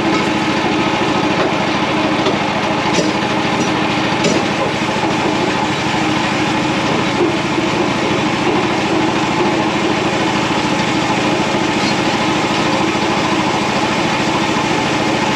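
Frontier OS31 portable band sawmill's small gas engine running steadily as the band blade saws through an American elm log.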